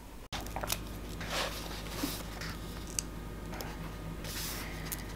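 Ballpoint pen writing on the paper of a workbook: a run of short, scratchy strokes with small pauses between them.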